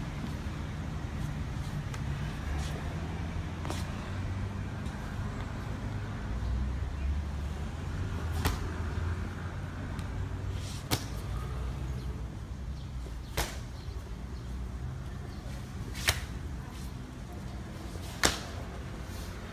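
Sharp hand slaps from a Piguazhang form: about five crisp cracks at uneven intervals of two to three seconds, with a couple of fainter ones early on, over a steady low rumble.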